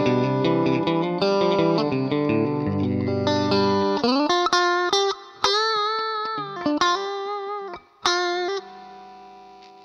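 Electric guitar played through a DemonFX Gravity effects pedal. Full, low notes and chords for the first four seconds give way to a single-note lead line with a string bend and vibrato. The last note rings out and fades away.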